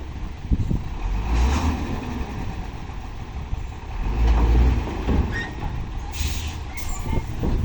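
Dump truck engine running, growing louder twice, about a second and a half in and again around four and a half seconds in, with two short hisses near the end.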